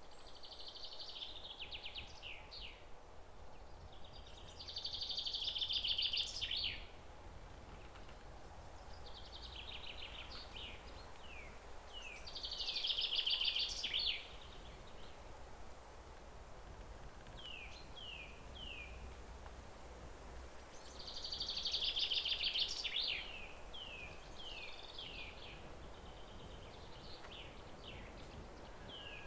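A songbird singing over and over: each phrase is a fast trill followed by a few short falling notes. The phrases come every few seconds and are loudest three times, over a low steady rumble.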